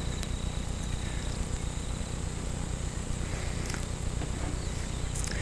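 Outdoor background noise: a steady low rumble and a faint high hiss, with a few soft clicks.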